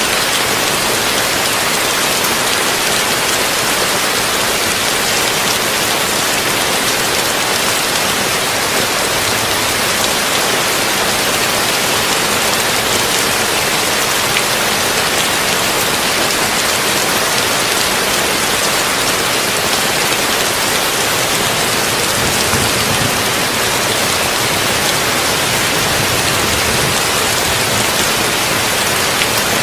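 Heavy rain falling steadily on a tin roof: a dense, even hiss of countless drops that stays the same level throughout.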